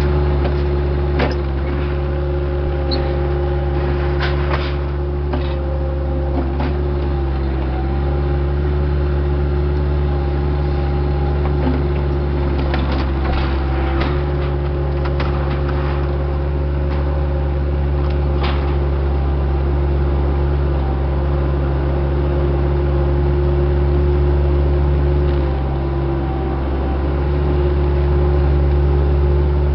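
Diesel engine of a heavy machine running steadily under work, its pitch shifting slightly a few times as it is loaded, with scattered sharp knocks and cracks from the demolition work.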